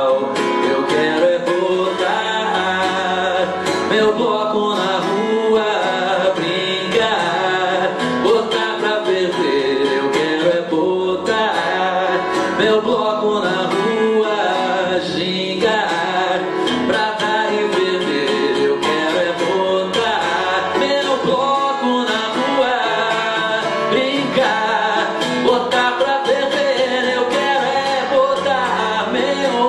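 Live band music with guitars and singing.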